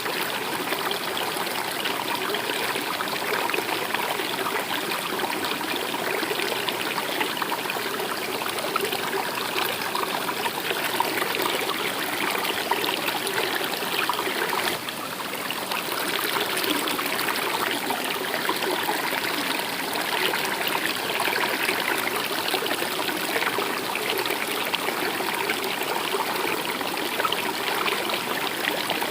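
Stream water flowing and trickling steadily, with a brief dip in loudness about halfway through.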